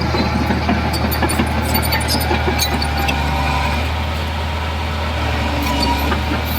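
Heavy diesel earthmoving engine running steadily, with scattered light clicks and rattles over the hum.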